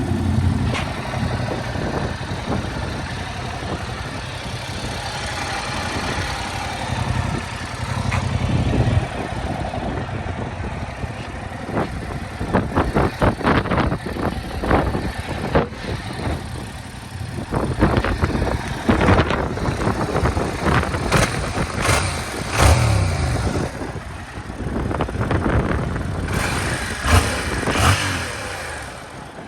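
Yamaha R7's parallel-twin engine running: steady for the first dozen seconds, then uneven, with many short sharp bursts and peaks from about twelve seconds in.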